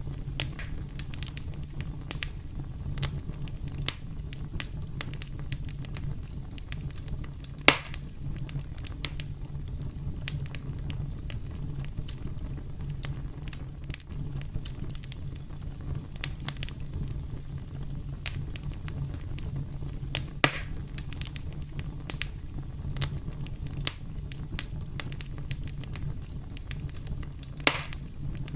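Campfire crackling: a steady low rumble of burning wood with frequent small crackles and three louder sharp pops, about 8, 20 and 28 seconds in.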